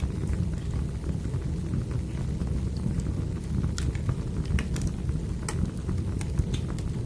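Wood fire burning: a steady low rumble of flame with irregular sharp crackles and pops of burning firewood, several close together in the second half.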